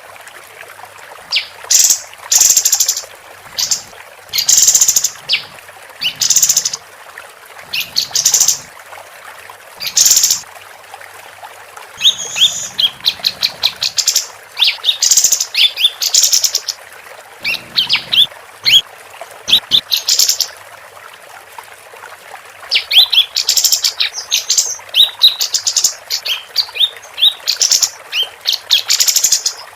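Female kapas tembak singing loud, lively phrases of rapid chirps and trills in bursts of a second or two, with short pauses between them, over a steady background hiss.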